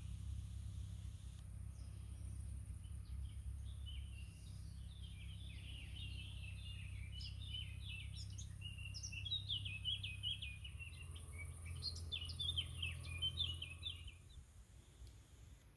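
Birds chirping and singing in a quick run of short, high notes that gets busier past the middle and fades out near the end, over a steady low rumble.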